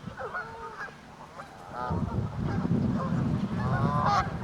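Canada geese giving several short honking calls close by, and a low rumbling noise from about two seconds in.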